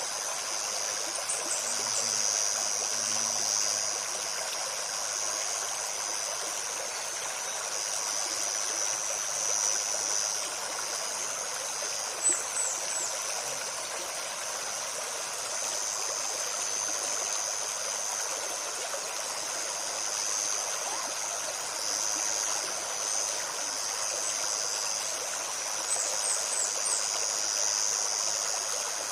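Small forest stream (babbling brook) flowing steadily, with a continuous high-pitched insect buzz that swells and fades. A few brief high bird chirps come about a second in, near the middle and near the end.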